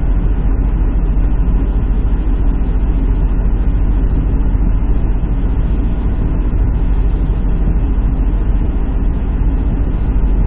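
Semi truck diesel engine idling, a steady low rumble.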